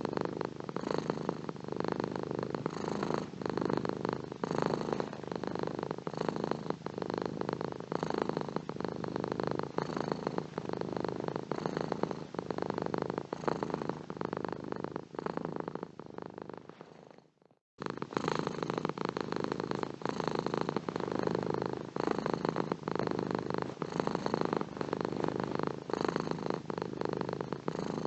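Domestic cat purring steadily, a close, continuous rumble. It fades out for a moment about seventeen seconds in and then starts again abruptly.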